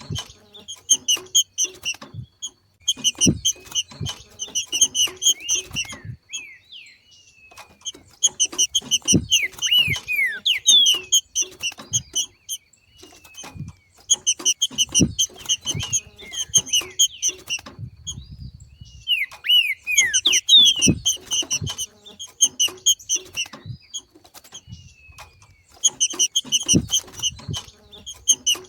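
Trinca-ferro (green-winged saltator) giving its 'macheado' chatter: bouts of rapid, evenly repeated high notes a few seconds long, broken by short pauses and a few falling whistled notes, a breeding-condition call that stirs other trinca-ferros to sing.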